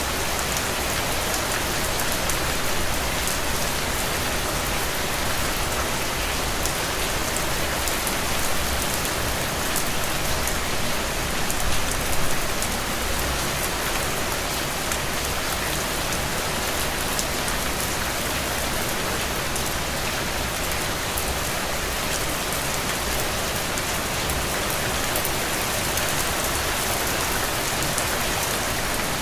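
Heavy, steady rain falling on open ground, a dense even hiss with many individual drops ticking, swelling slightly about halfway through.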